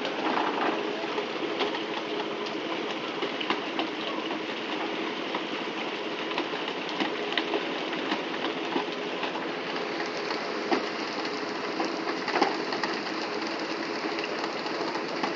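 A fishing boat's engine running steadily, mixed with a hiss of water and scattered knocks and clicks.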